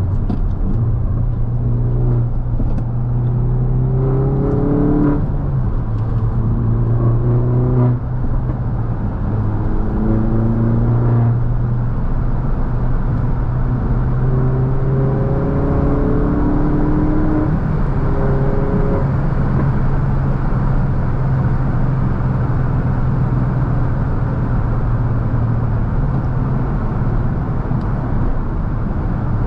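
R56 Mini Cooper S's turbocharged 1.6-litre four-cylinder engine heard from inside the cabin under steady tyre and road noise. It rises in pitch several times in the first part as the car accelerates, then settles into a steady cruise.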